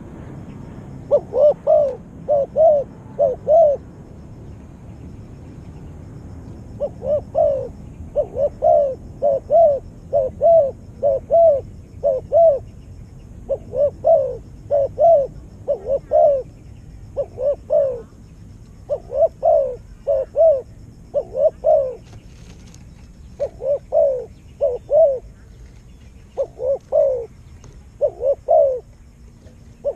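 A bird calling over and over: short, low-pitched notes in quick groups of two to four, with a pause of a few seconds after the first group and then steady repetition.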